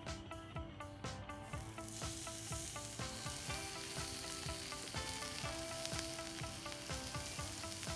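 Food sizzling in a hot pan over a small fire stand, the sizzle starting about a second and a half in and then running steadily, with background music of plucked notes underneath.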